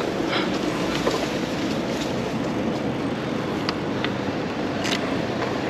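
Steady rushing wind noise and road noise while riding a bicycle, with a few brief clicks or rattles.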